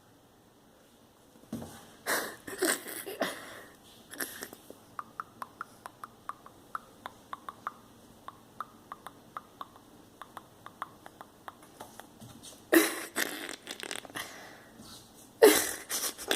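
A cat scrambling after a laser pointer dot: bursts of scuffling and thumps, the loudest near the end. In between comes a run of light clicks, about three a second.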